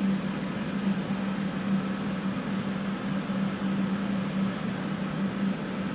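Fume extraction fans running steadily, a rushing air noise with a constant low hum.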